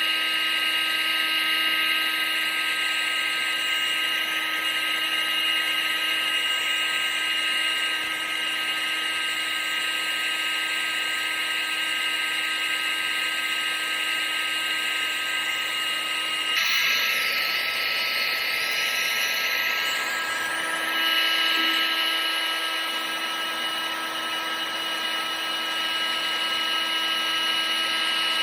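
Vacuum cleaner motor running steadily: a constant high whine over a rushing hiss. About two-thirds of the way through, its tone shifts slightly, then it runs on steadily.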